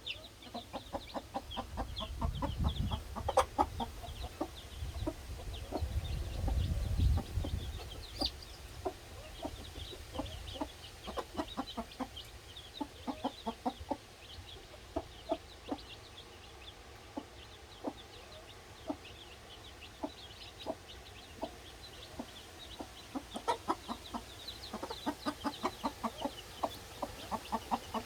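A Cheonggye hen clucking to her chicks in short, repeated clucks while the chicks peep high and thin throughout. A low rumble comes in about two seconds in and again around six to seven seconds in.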